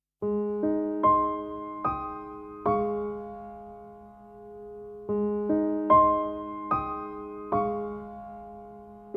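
Slow, calm solo piano music: single notes struck one after another and left to ring, with a short phrase of five notes played and then repeated about five seconds later.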